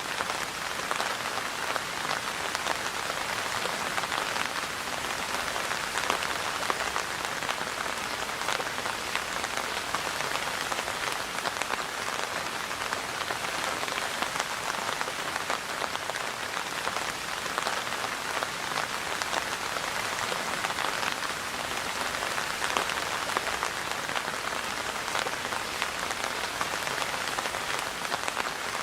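Steady rain falling on surfaces, a dense patter of individual drops at an even level.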